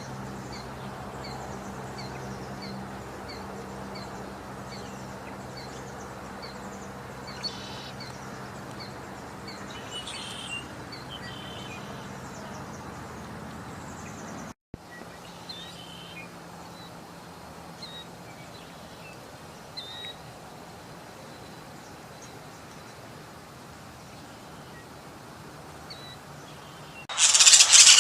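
Small birds chirping outdoors: one repeats a short high chirp a little more than once a second, with other scattered calls, over a steady low hum. A loud harsh burst comes about a second before the end.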